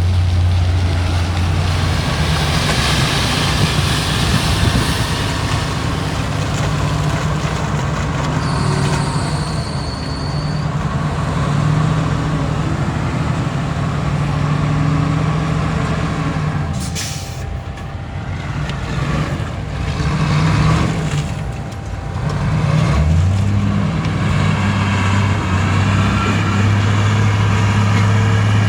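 Heavy diesel engines of earthmoving machinery running with a steady low drone, the engine note shifting now and then. A short high hiss comes about nine seconds in, and a sharp burst of hiss about seventeen seconds in.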